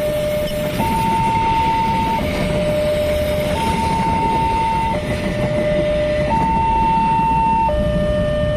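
Two-tone electronic siren alternating steadily between a high and a low note, each held about a second and a half, over a continuous low rumble.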